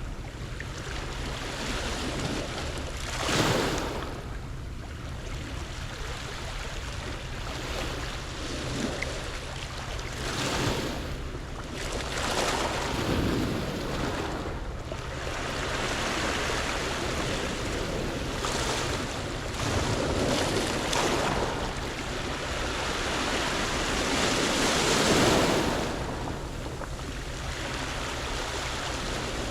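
Waves breaking and washing over a pebble beach, surging every few seconds with the biggest swells about three seconds in and near the end, with wind on the microphone.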